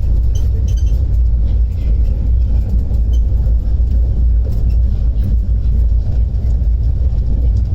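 Running noise of a moving passenger train: a steady low rumble with faint scattered clicks and rattles.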